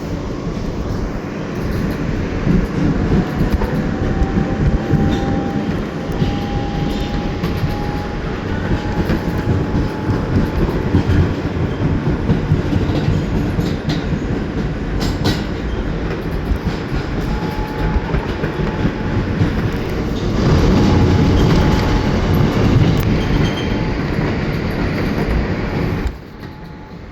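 New York City subway train running between stations, heard from aboard: a steady rumble with wheels clacking over rail joints and a faint high whine. The noise drops off suddenly near the end.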